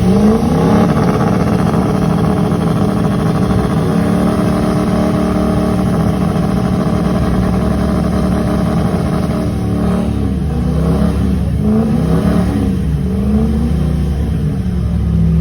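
Truck engine revved up fast and held at high revs for several seconds, as in a burnout. Near the end the revs rise and fall several times before settling.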